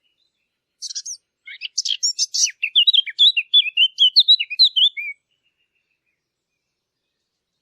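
A songbird singing one phrase of about four seconds: a quick run of varied chirps and short whistled notes that starts about a second in and stops abruptly.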